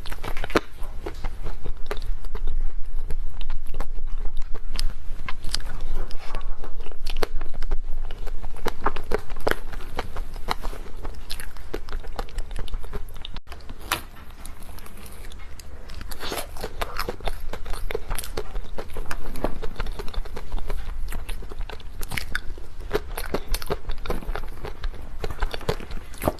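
Close-miked eating of dessert: biting and chewing with wet, crackly mouth sounds, louder over the first ten seconds or so and softer after.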